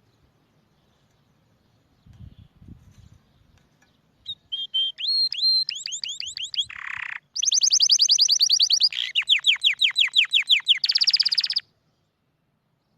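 Domestic canary singing one long song phrase that begins about four seconds in: quick falling notes, a short buzzy passage, then very fast even trills of about a dozen notes a second. The phrase cuts off sharply near the end.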